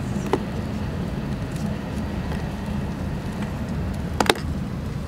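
Steady low rumble of an E6 series shinkansen running, heard from inside the passenger cabin. A sharp click comes about a third of a second in, and a brief double click a little after four seconds.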